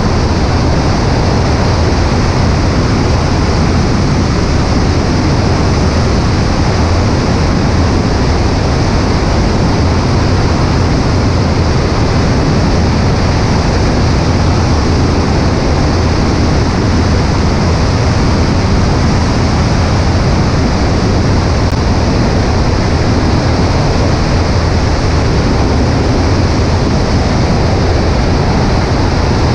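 Steady rush of airflow and engine noise on a wing-mounted camera of a Cessna 140A light aircraft in flight, unchanging throughout, heaviest in the low rumble.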